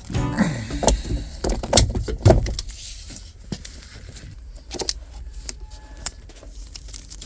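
A string of sharp clicks, knocks and light metallic rattles as parts are handled, thickest in the first couple of seconds and then more scattered.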